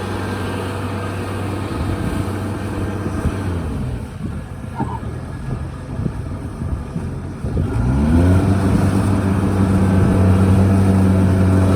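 Kubota DC-73 combine harvester's diesel engine running steadily. It eases off for a few seconds, then revs up with a rising pitch about eight seconds in and holds a higher, louder speed.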